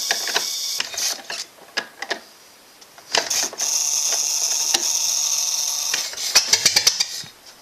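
1917 Ford Model T four-cylinder flathead engine being hand-cranked without starting, its ignition coils buzzing with mechanical clicking. There are broken bursts at first, then a long steady buzz through the middle, then a quick run of sharp clicks near the end as it nearly catches.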